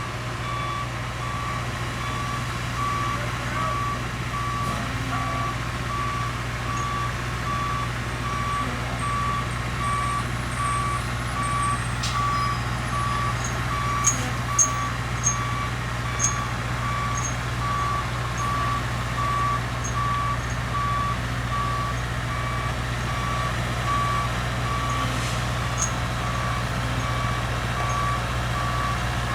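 Backup alarm of a CSX Sperry rail-test truck beeping at one steady pitch and even spacing as the truck reverses off the track, over the steady hum of its running engine. A few short clicks sound about halfway through.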